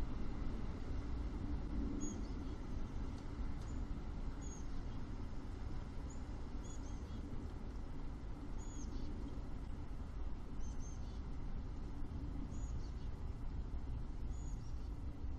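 Outdoor ambience: a steady low rumble, with a bird giving short, high chirps every second or two over it.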